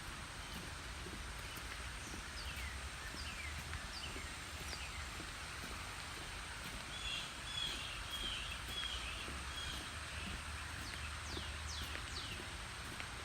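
Songbirds chirping and singing: scattered short falling chirps, a warbling phrase in the middle, and a few quick downward sweeps near the end, over a steady outdoor hiss and low rumble.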